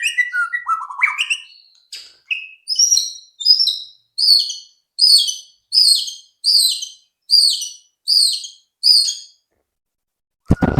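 White-rumped shama (murai batu) singing: a few rising and falling whistled phrases, then a run of about ten sharp high notes repeated about three every two seconds. A short loud knock comes just before the end.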